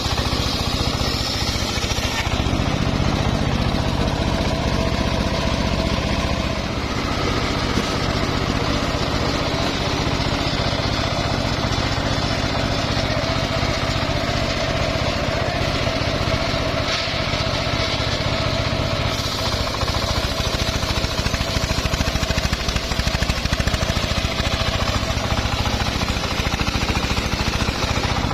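Homemade engine-driven circular sawmill running steadily as its blade saws through a mahogany log, the engine and blade making a continuous mechanical drone.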